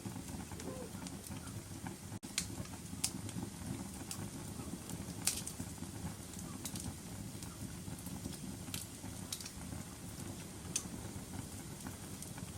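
Wood fire crackling in a fireplace: a steady low rumble of burning with sharp pops every second or so, the loudest about two and a half, three and five seconds in. The sound cuts out for an instant about two seconds in.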